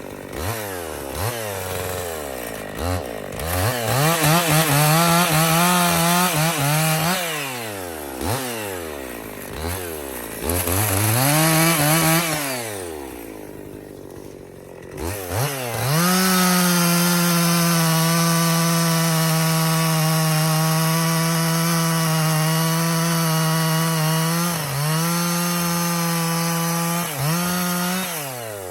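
Two-stroke Husqvarna 55 chainsaw revved up to full throttle and dropped back several times, then held at full speed for about eight seconds, bucking a log into firewood rounds.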